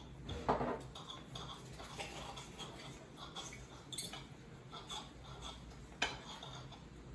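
Cutlery and dishes clinking: a run of small, irregular taps and scrapes of metal utensils on plates, louder once about half a second in and again about six seconds in.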